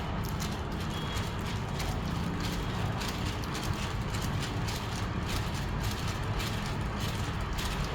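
Model ornithopter's flapping wing mechanism clattering in a fast, uneven run of taps over a steady low rumble.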